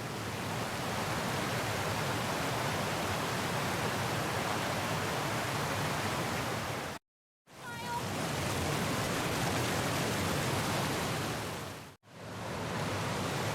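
Small waterfall on the Ocqueoc River, with water rushing steadily over a low limestone ledge. The rush drops out twice, briefly about halfway and for an instant near the end.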